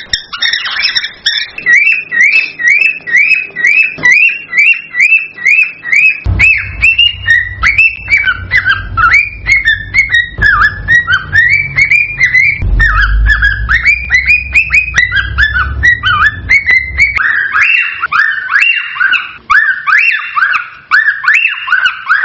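Male cockatiel singing its courtship song: a long run of short repeated whistled notes, two to three a second, with a low rumble underneath through the middle.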